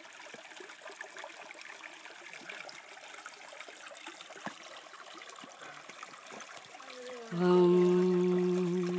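Creek water running and trickling steadily. About seven seconds in, a person hums one long, steady note over it, louder than the water.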